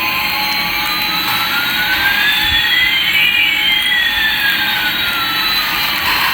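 Jet engine sound effect: a steady hiss with two whining tones, one rising and one falling, that cross about halfway through.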